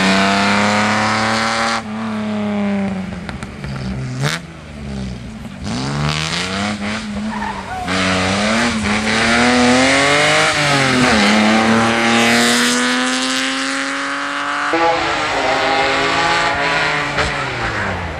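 Rally car engines at full throttle, their pitch climbing and dropping again and again with throttle lifts and gear changes, with one sharp bang about four seconds in. The sound changes abruptly twice as it moves from one car to the next.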